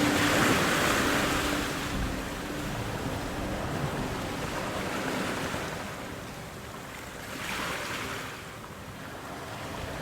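Sea waves washing on a shore: a wave breaks at the start and slowly fades, and a second, smaller surge washes in about three quarters of the way through.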